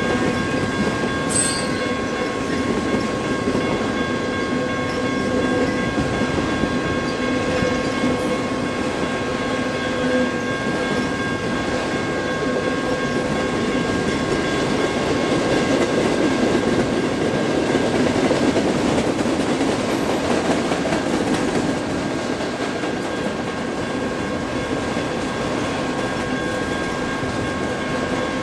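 Freight train of autorack cars rolling past: a steady rumble and clatter of steel wheels on the rails, with a few steady ringing tones held throughout.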